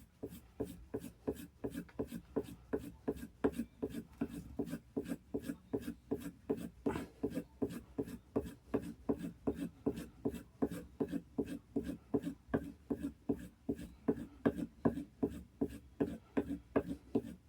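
A Stanley No. 9½ block plane blade being stropped: quick, even rubbing strokes along the strop, about three a second. It is the final honing stage after the sharpening stones.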